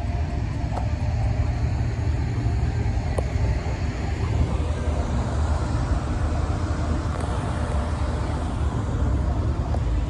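Steady low rumble of car engines running, with traffic noise.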